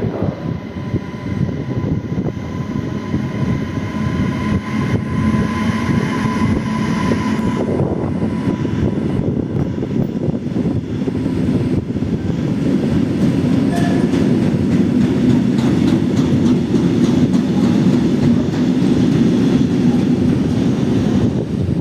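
Class 192 Siemens Smartron electric locomotive running through a station without stopping, hauling wagons. A steady electric whine is heard at first and fades out about eight seconds in. After that, the rumble and clatter of wheels rolling past grows louder and continues.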